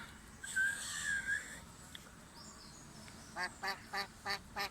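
A duck quacking: a short higher call about half a second in, then a quick run of about six quacks, about four a second, near the end.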